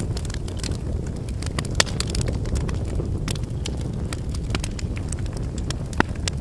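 Wood campfire burning: a steady low rush of flame with irregular sharp crackles and pops of firewood, two louder pops about two seconds in and near the end.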